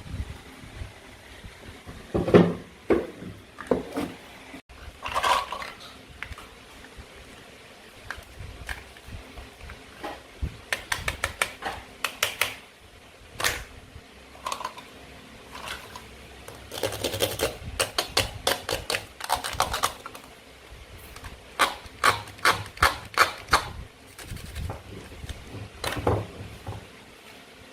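Plastic toy fruit and vegetables being handled and cut with a toy knife: sharp plastic clicks and clatters, some in quick runs, with a few short scraping sounds.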